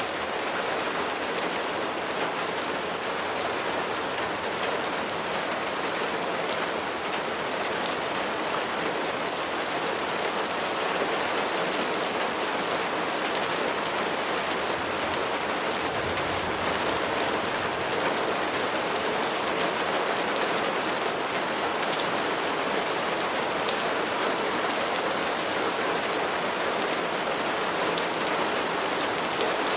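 Steady rain falling: a dense, even hiss with many small drop ticks in it.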